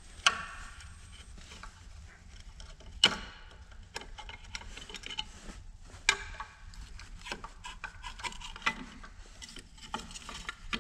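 Scattered clicks, knocks and rubbing from hand work on a spare electric motor as its start capacitor is taken off, with sharper knocks about a third of a second, three seconds and six seconds in.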